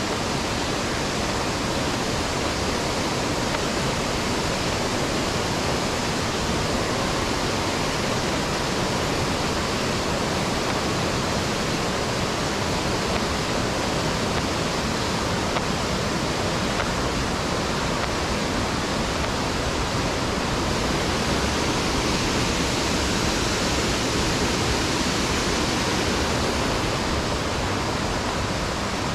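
Mountain stream water rushing over rocks: a steady, even wash of water noise.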